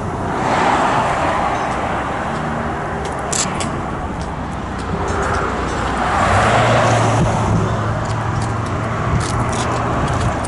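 Road traffic: two vehicles pass by, one about a second in and another around six to seven seconds in, over a steady low engine rumble.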